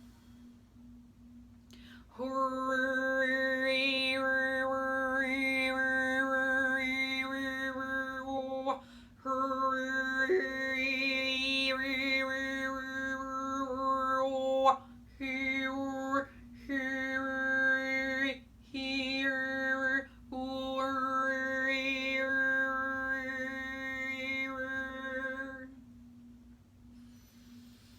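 A woman overtone singing: one held low note with a whistling overtone melody shifting high above it, broken by a few short breaths. A steady pure drone tone on the same pitch sounds beneath the voice and goes on alone before and after it.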